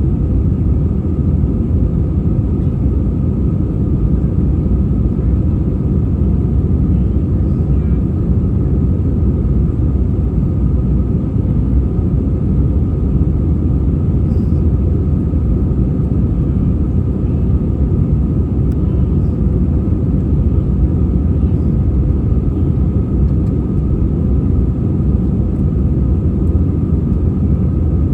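Cabin noise of an Airbus A320-232 with IAE V2500 engines: a steady, even rumble of engines and airflow heard from inside the cabin, with a faint steady whine above it.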